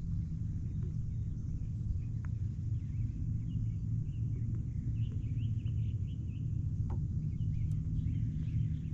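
A steady low rumble, with faint bird chirps coming in from about three seconds in.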